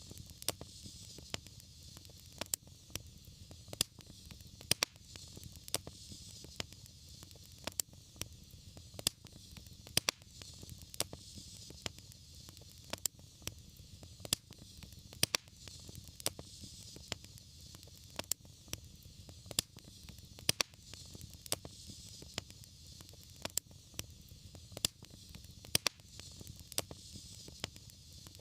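Fireplace fire crackling, with frequent sharp pops and snaps over a steady low rumble and a soft hiss.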